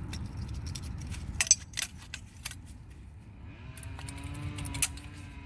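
Small metal brake hardware parts clinking and clicking as they are handled, several sharp clinks about one and a half to two and a half seconds in. Near the end a steady pitched hum joins in for about two seconds.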